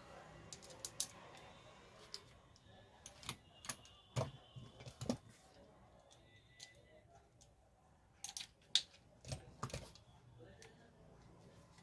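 Scattered clicks and knocks of small metal angle-grinder parts being handled and fitted during repair. There is a cluster of sharper knocks about four seconds in and another around eight to ten seconds in.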